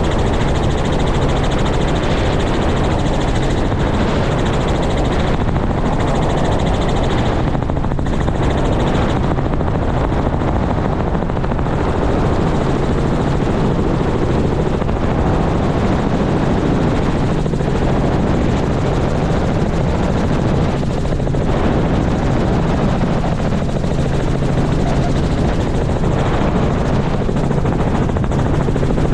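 Helicopter running steadily and loudly, its rotor and engine making an even, unbroken drone.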